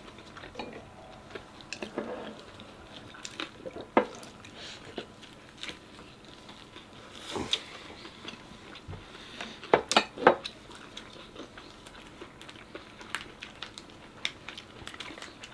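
People chewing and biting fresh shrimp-and-pork spring rolls, with scattered light clicks of utensils and dishes and a short cluster of sharper clicks about ten seconds in.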